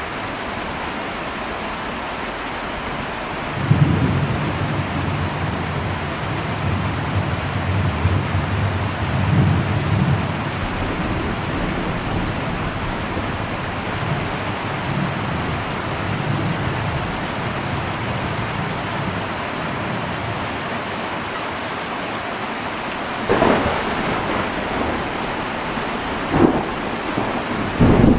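Heavy rain drumming steadily on an old metal roof. A few seconds in a long low rumble of thunder rolls in and fades over several seconds, and near the end come a few sharp cracks.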